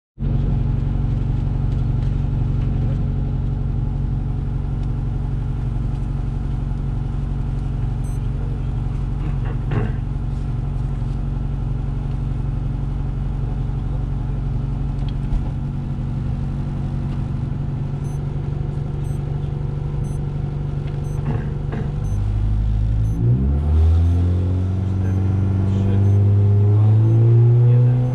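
Rally car engine heard from inside the cabin, running at steady revs for the first twenty-odd seconds, then accelerating hard, with the pitch climbing in repeated rising sweeps through the gear changes.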